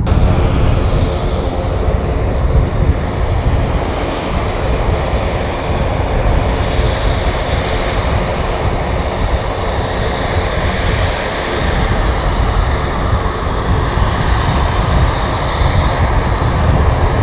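Fixed-wing aircraft's engines running loud and steady, a dense roar with a faint held whine above it.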